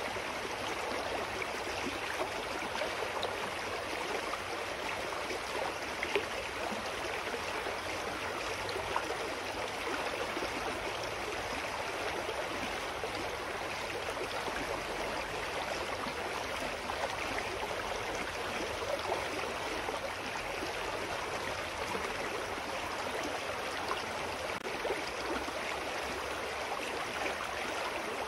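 A clear mountain stream flowing steadily over rocks, a continuous rushing and burbling of water.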